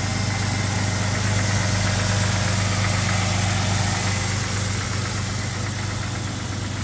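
Jeep 4.0-litre straight-six engine in a WJ Grand Cherokee idling steadily, heard from the open engine bay.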